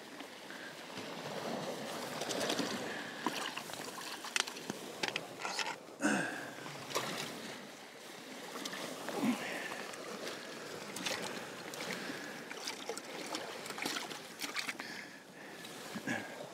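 Sea water washing and lapping against shoreline rocks, a steady wash of noise with many short clicks and knocks scattered through it.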